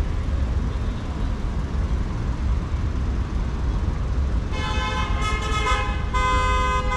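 Steady low rumble of city street traffic. About four and a half seconds in, a vehicle horn sounds for just over a second, then it honks again, louder and shorter, near the end.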